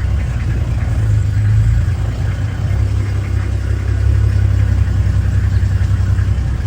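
Safari vehicle's engine running steadily with a deep, even rumble.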